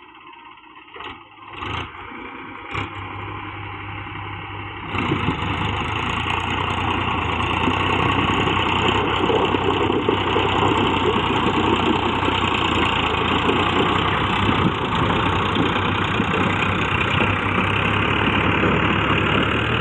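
Tractor diesel engine running, much louder from about five seconds in and then steady. A few short knocks come in the first few seconds.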